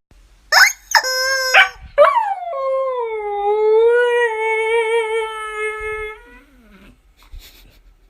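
A dog gives three short high yelps, then one long howl that starts high, slides down and wavers for about four seconds before fading out.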